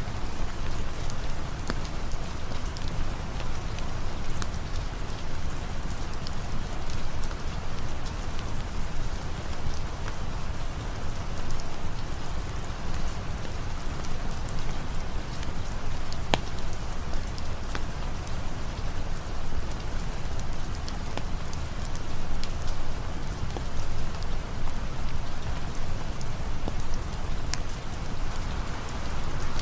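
Steady rain falling, an even hiss with scattered sharp ticks and drips throughout.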